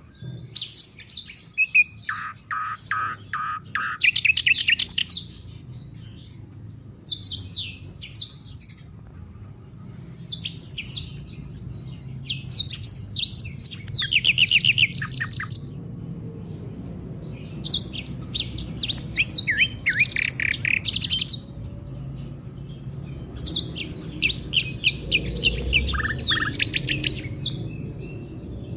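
Songbird song in phrases of rapid high chirps and trills a few seconds long, broken by short pauses, over a faint low steady hum.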